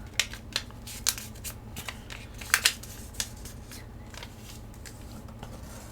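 A square sheet of origami paper being folded in half diagonally: short sharp crackles and rustles of the paper, the loudest pair about two and a half seconds in, then only quiet background.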